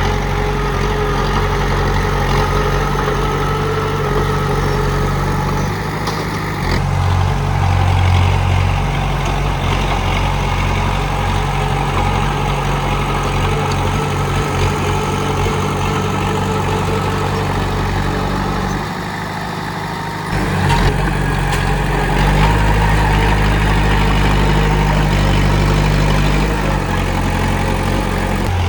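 Komatsu D31P bulldozer's diesel engine running steadily, its low drone shifting in strength a few times, dipping briefly about two-thirds of the way in and then running louder.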